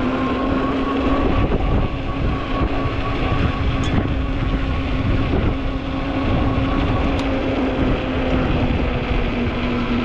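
Ecotric fat-tire e-bike's hub motor whining at a steady pitch under power, over a constant low rumble of wind on the microphone.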